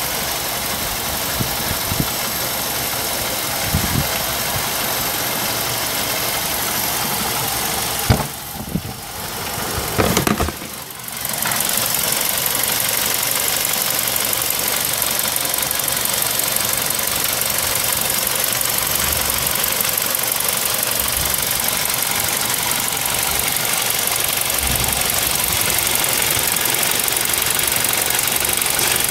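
Ford Duratec HE 2.0-litre four-cylinder petrol engine idling steadily, heard from over the open engine bay. About eight to eleven seconds in the level briefly drops and a few knocks are heard.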